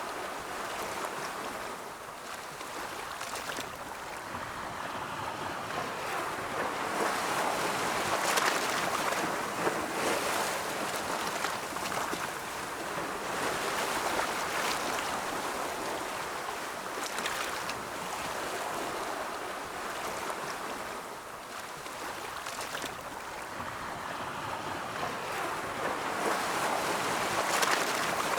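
Ocean waves rolling and breaking, a continuous surf wash that swells and eases, with louder breakers about a third of the way in and again near the end.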